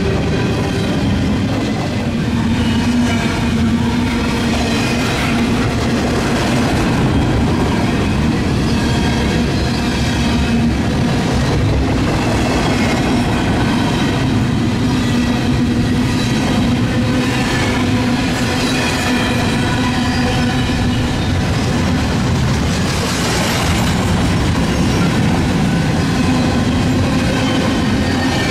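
A train rolling past close by for the whole stretch: a steady, loud rumble of wheels on rail, with faint irregular clacks and ringing, high steady tones over it.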